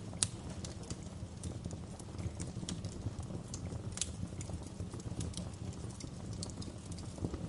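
Wood fire crackling in a fireplace: irregular sharp pops and snaps over a low steady rumble, with louder pops just after the start and about four seconds in.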